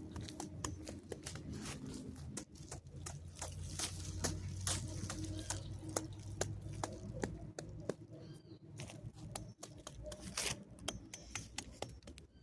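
Irregular dry crackles and snaps over a low steady rumble.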